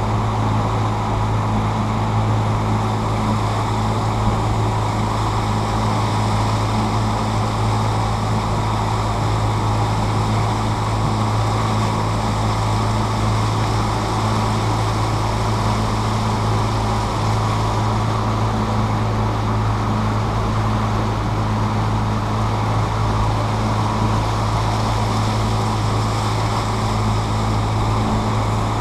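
A tour boat's motor running steadily under way on the river, a constant low drone with water and wind noise over it.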